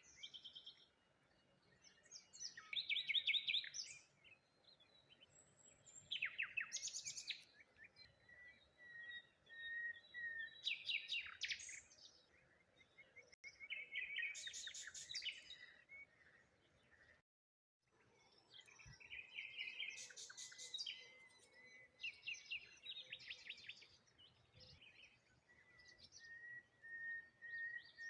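Songbirds singing: short chirping phrases every few seconds, with a thin, steady high whistle held between some of them. The sound cuts out completely for about a second midway.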